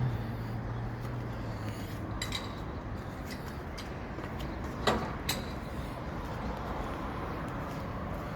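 Steady road and engine noise from inside a moving ute, with a low hum fading over the first few seconds and a few light clicks, the sharpest about five seconds in.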